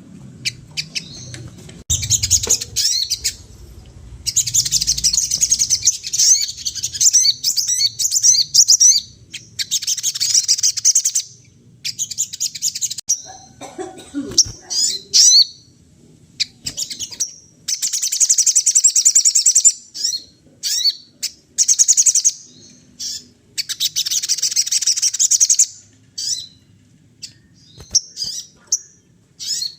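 A sogon songbird singing loud, rapid, high-pitched chattering phrases, several lasting a few seconds each, broken by short pauses and brief calls.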